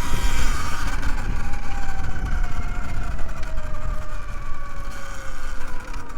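Segway X160 electric dirt bike's motor whining, running in eco mode, its pitch falling slowly as the bike slows, over a steady low rumble.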